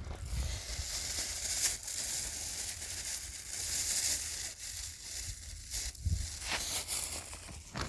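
Crunching noise, like footsteps or digging in snow or gravel, with a few sharp knocks.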